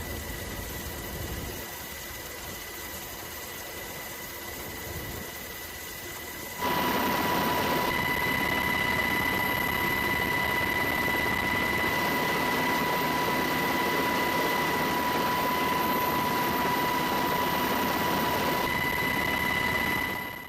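Steady engine drone with a high whine, stepping up sharply in loudness about six and a half seconds in and fading out at the end.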